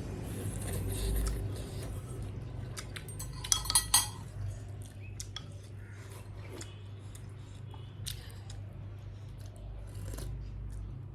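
Eating utensils clinking against a dish: a quick cluster of sharp clinks about three and a half seconds in, with lighter scattered clicks around it, over a low steady hum.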